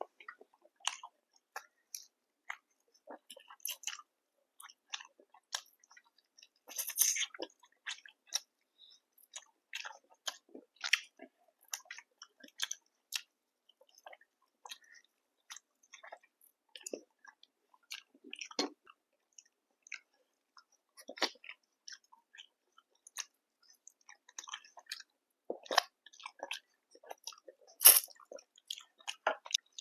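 Close-miked eating of chicken and naan: steady, irregular chewing and biting with small mouth clicks, and two louder bites, one about seven seconds in and one near the end.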